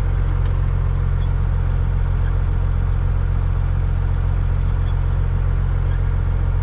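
Caterpillar 3406E inline-six diesel of a Freightliner FLD120 running steadily with a deep, even hum and no change in engine speed.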